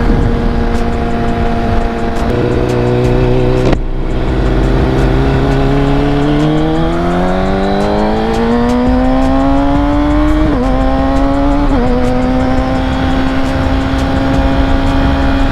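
Kawasaki ZX-6R inline-four engine holding a steady pitch, then, after a brief break in power about four seconds in, climbing steadily in pitch as it accelerates, with two quick upshifts before settling into a steady cruise. Wind rush sits underneath.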